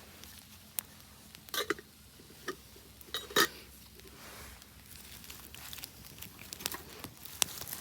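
Irregular small clicks and knocks, with two louder knocks about one and a half and three and a half seconds in, over a faint steady background.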